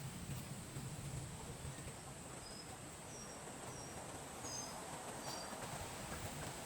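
Forest ambience with a small bird giving a run of short, high chirps in the middle, over a steady faint hiss and a thin high tone.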